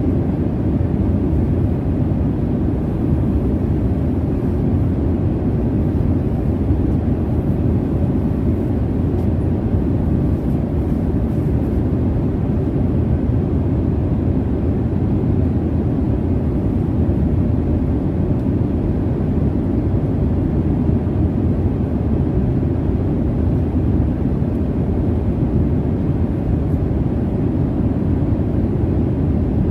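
Jet airliner cabin noise in flight: a steady, deep rumble and hiss of engines and airflow that never changes.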